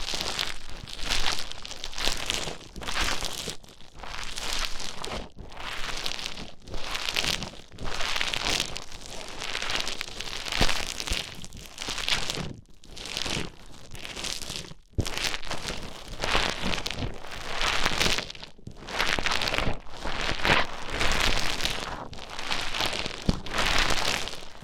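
Play Foam, a beaded modelling foam, being squished and mixed by hand, giving a crackly, squelching crinkle in repeated strokes about once or twice a second.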